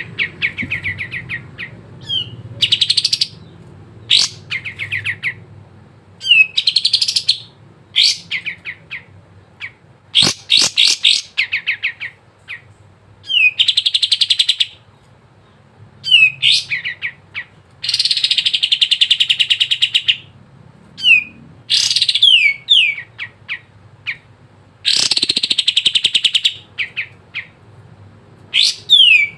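Kapas tembak bulbul singing: repeated bursts of rapid chattering trills and quick down-slurred whistled notes. Each phrase lasts about half a second to two seconds, with short pauses between them.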